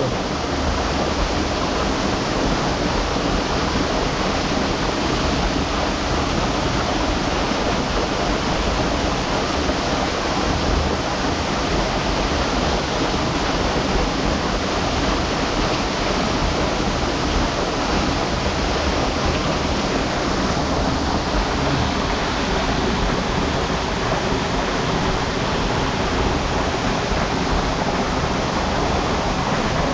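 Steady rush of running water in a hot spring pool, an even unbroken noise.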